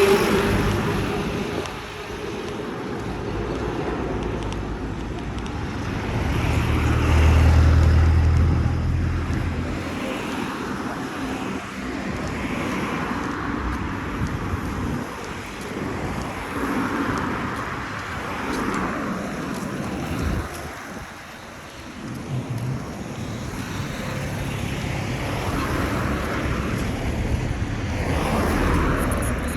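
Street traffic: motor vehicles passing, with a louder low rumble from one vehicle going by about a quarter of the way in, over a steady haze of street noise.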